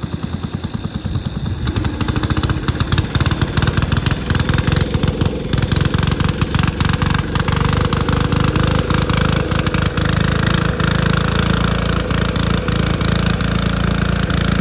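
Cub Cadet lawn tractor engine running flat out with its governor wired open, a fast, ragged stream of firing pulses; it grows louder about two seconds in and holds at full revs, being deliberately over-revved until it fails.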